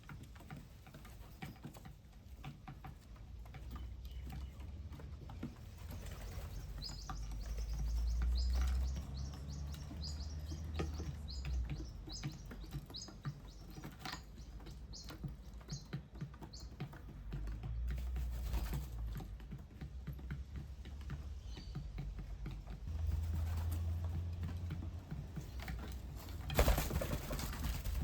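Small birds at a bird bath: a quick run of short, high chirps from about 7 to 15 seconds in, with scattered light clicks and taps throughout, and a brief burst of wing flapping near the end.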